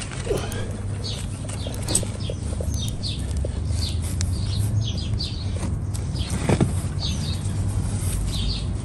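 Small birds chirping repeatedly in short, quick calls, with a steady low hum underneath.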